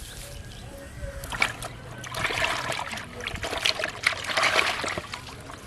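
Water splashing and sloshing, loudest from about two seconds in until shortly before the end.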